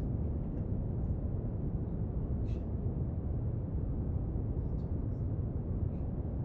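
Steady brown noise, a deep, even hiss weighted toward low pitches, with a few faint light ticks from desk work.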